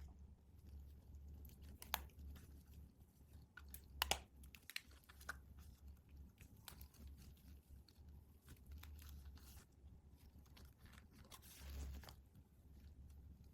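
Toy packaging being handled and opened: small crinkles and clicks, two sharper clicks about two and four seconds in, and a short rustle or tear near the end, over a steady low hum.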